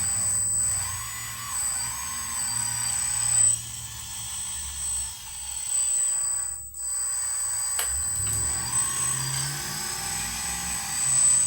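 Small electric motors and a hydraulic pump of a radio-controlled hydraulic construction model whining, their pitch rising and falling as the controls are worked, over a steady high-pitched tone. Near the middle the sound briefly drops out, followed by a single click.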